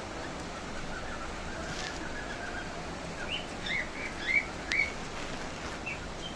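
A small bird giving a run of short, high chirps in the second half, after a faint twitter about a second in, over a steady hiss of rain.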